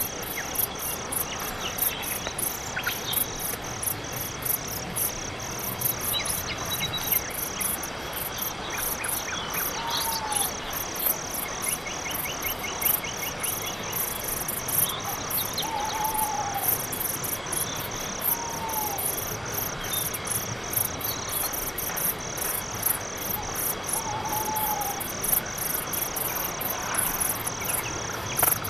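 Crickets chirping in an even rhythm, about two to three chirps a second, as night-forest ambience. A few short arching calls from another animal come through it four times.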